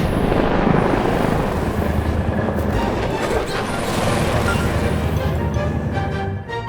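Cartoon sound effect of a small flying robot's engine running with a steady whirring drone, under background music.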